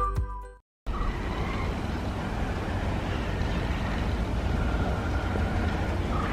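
Background music fades out, and after a short gap a steady vehicle rumble sets in about a second in.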